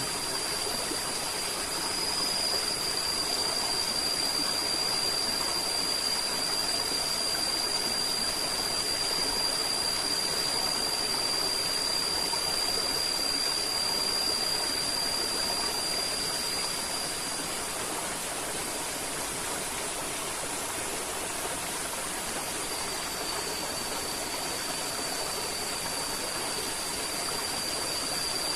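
River water flowing steadily with an even rush. Over it runs a thin, steady high-pitched whine that drops out about two-thirds of the way through and comes back near the end.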